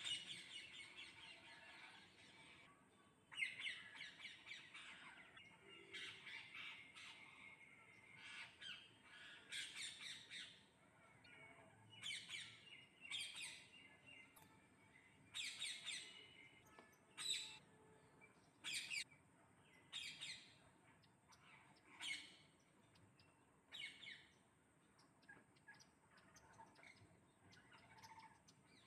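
A flock of parrots screeching, with dense, overlapping calls for about the first ten seconds. After that come single sharp squawks every second or two, thinning out and growing fainter near the end.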